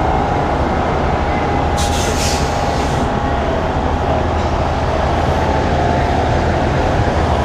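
A semi truck's diesel engine running with a steady low rumble as the truck pulls forward. A short hiss comes about two seconds in.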